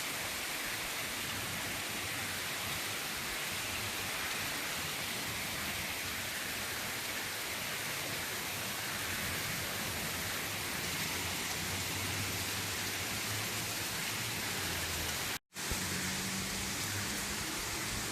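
Heavy rain pouring down in a flash-flood storm, a steady, even hiss. The sound cuts out briefly near the end, and a low rumble runs under the rain after that.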